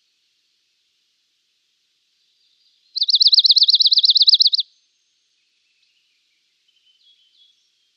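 Dark-eyed junco singing one fast, even trill of identical repeated notes, about three seconds in and lasting under two seconds, followed near the end by a few faint short notes.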